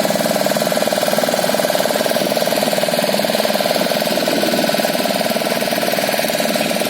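An engine running steadily, with a fast, even throb.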